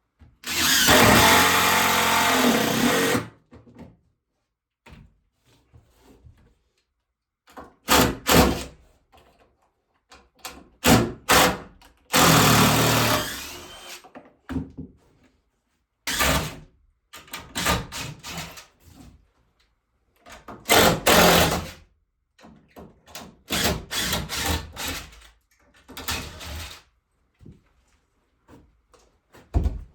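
Power drill running in two bursts, one of about three seconds near the start and one of about two seconds partway through, with scattered knocks and clatter from woodworking between them.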